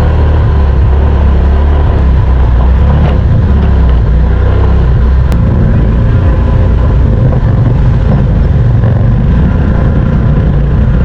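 Side-by-side UTV engine running steadily as the machine drives off along a dirt trail, heard loud and close from on board as a continuous low rumble.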